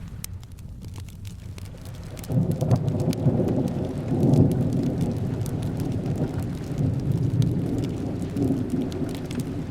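Steady rain with fine crackles, and a low roll of thunder that comes in about two seconds in and rumbles on.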